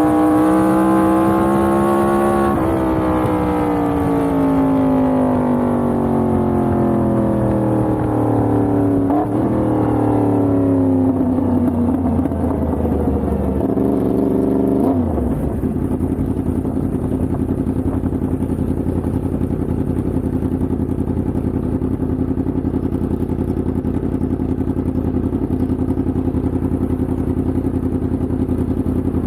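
Yamaha MT-10's crossplane inline-four engine slowing down: its note falls steadily for about fifteen seconds with a few brief blips, then settles into a steady idle.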